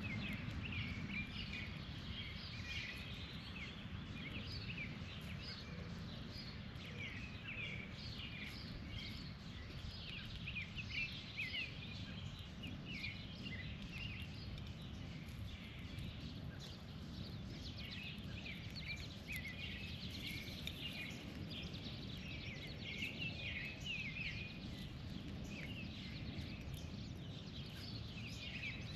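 Several birds chirping and calling in quick, overlapping short notes that thicken and thin in clusters, over a steady low rumble.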